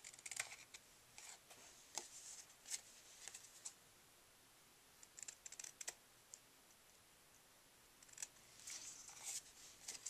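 Scissors snipping through cardstock, trimming off overhanging edges: faint, in several short runs of quick snips with pauses between.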